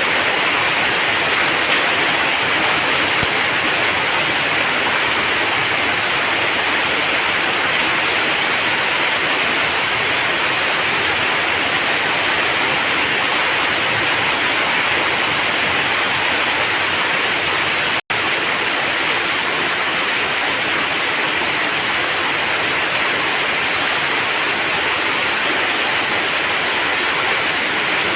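Heavy rain falling steadily as an even hiss, broken once by a split-second gap about two-thirds of the way through.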